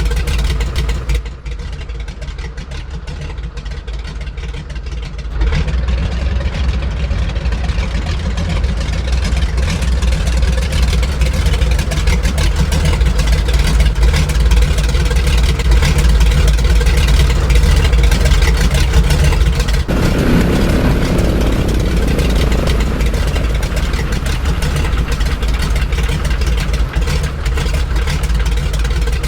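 Grumman Goose's twin Pratt & Whitney R-985 radial engines running. The sound drops in level about a second in and comes back up about five seconds in, and its tone shifts again around twenty seconds in.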